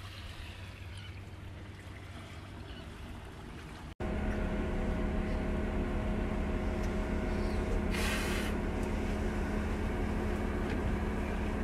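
A faint low hum for the first four seconds, then, after an abrupt cut, a vehicle engine running steadily with an even drone. A brief rush of noise comes about eight seconds in.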